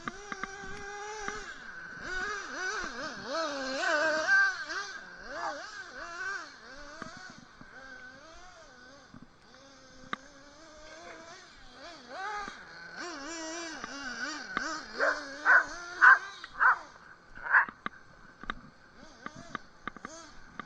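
Dog whining on and on, its pitch wavering up and down, with several short, louder yelps about three-quarters of the way through, over a steady high tone.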